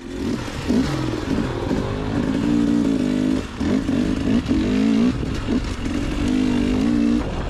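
Two-stroke dirt bike engine being ridden on a trail, its pitch rising and falling over and over as the throttle is worked, over a steady rush of noise.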